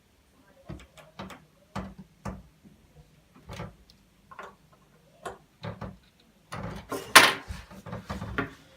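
Scattered small clicks and taps of an iPhone 6 and a small screwdriver being handled on a tabletop as the bottom screws are tightened. The clicks come thicker about six and a half seconds in, with one louder clack.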